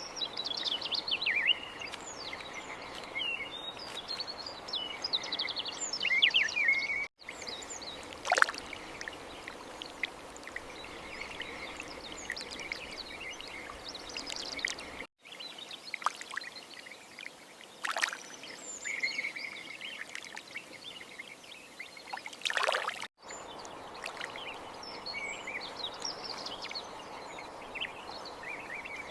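Many small birds singing and chirping, with quick overlapping trills and a few sharper, louder calls, over a steady outdoor hiss. The sound drops out completely for a moment three times, about seven, fifteen and twenty-three seconds in.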